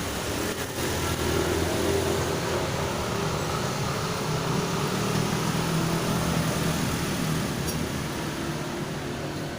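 An engine runs steadily with a low, even hum. It grows louder about a second in and eases off near the end.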